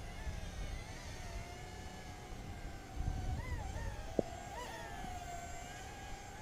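Hubsan X4 H107C mini quadcopter's small motors and propellers whining steadily, the pitch swooping up and down a few times in the middle as the throttle changes. A single sharp click comes about four seconds in.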